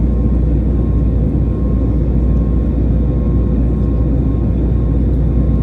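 Jet engine noise from an easyJet Airbus A321neo's CFM LEAP-1A turbofans: a steady, loud, low rumble with a faint steady hum on top.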